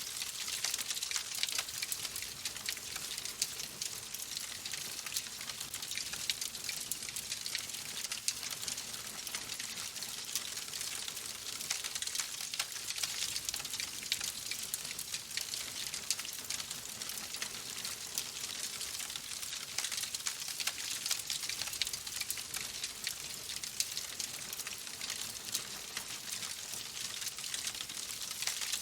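Fireplace fire crackling: a steady hiss dense with small pops and snaps.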